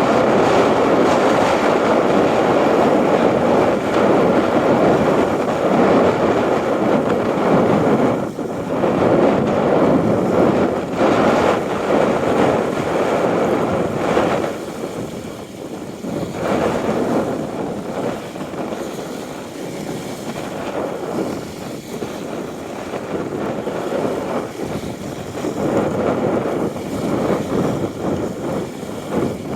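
Wind blowing over the microphone as a steady rush that swells and eases in gusts, stronger in the first half and lighter in the middle before rising again near the end.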